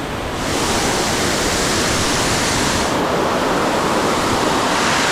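Loud, steady rush of falling water from a large waterfall. It grows louder about half a second in, and its hiss shifts in tone partway through.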